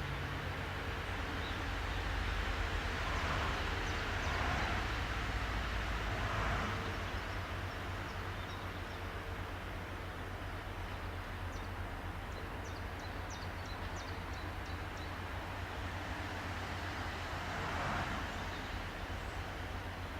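A train running past on the line, a steady rumble of wheels on rails with a few louder swells. In the middle comes a short run of high squeaks or clicks from the wheels.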